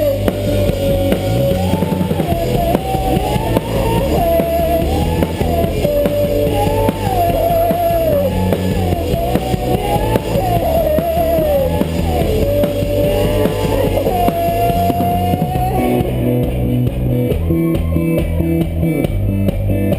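Live rock band playing: drum kit, bass and guitar, with a lead melody that bends up and down in pitch. The lead line holds a long note and drops out about 16 seconds in, leaving the band.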